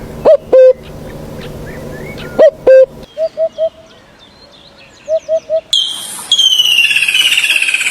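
Birds calling: short low call notes, some in quick groups of three. About six seconds in, this changes abruptly to a rapid series of higher, falling notes over a steady hiss.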